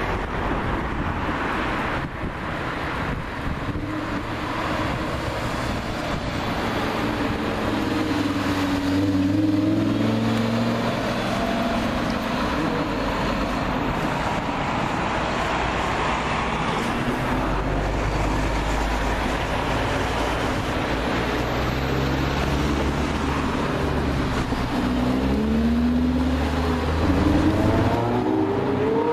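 Lamborghini Huracán LP610-4 naturally aspirated V10 engines running, with the pitch rising as they rev or accelerate about eight seconds in and again near the end, and steady low running in between.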